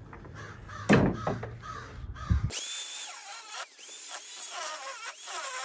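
Angle grinder cutting through thick copper transformer windings: after a knock about a second in, a loud high-pitched whine starts about halfway through, its pitch dipping and recovering again and again as the disc bites into the copper.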